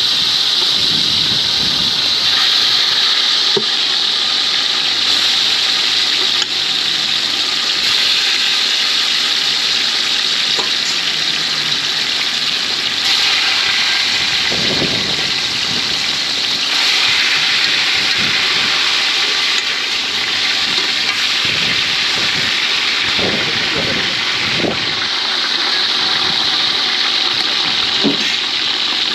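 Chicken pieces frying in hot oil in a large aluminium pot over a charcoal fire: a steady, loud sizzle as the meat browns.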